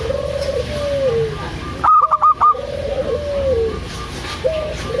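Zebra dove (perkutut) cooing in repeated song phrases. Each phrase is three quick, clipped high notes, then a lower quavering trill and a falling drawn-out coo. A full phrase begins about two seconds in, over a low steady hum.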